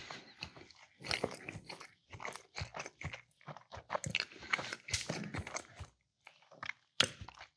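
A person chewing food close to the microphone: irregular runs of short wet mouth clicks, several a second, with one sharper click about seven seconds in.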